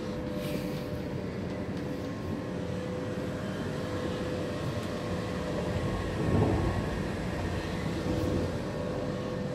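Cabin noise of a moving Swiss double-decker passenger train: a steady rumble of the running train with a constant hum. It swells briefly to a louder rumble about six seconds in.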